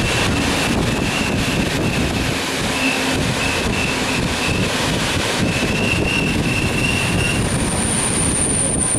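Passenger train rolling slowly into a station, heard from aboard: a steady rushing rumble with faint, intermittent squeals, and a thin, very high-pitched brake or wheel squeal starting near the end as the train slows to a stop.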